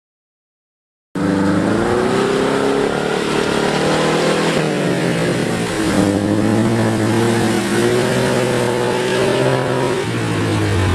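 Suzuki Jimny 4x4's engine revving hard as it drives through mud and water, its pitch shifting up and down. It cuts in suddenly about a second in, after silence.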